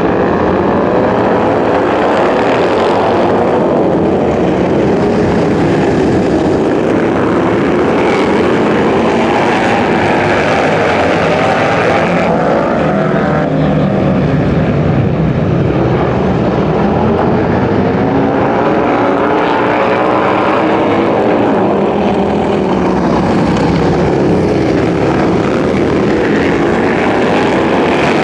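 Motorcycle engines running loud, their pitch rising and falling as they rev.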